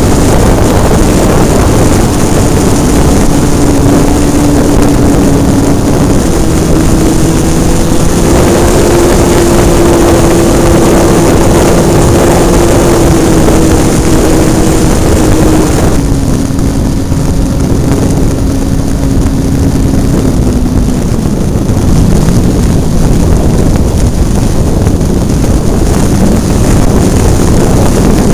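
Hobbistar 60 RC model airplane's engine running in flight, heard up close from on board with wind rushing over the microphone. Its pitch rises slightly, then falls in two steps about halfway through and later as the throttle is pulled back.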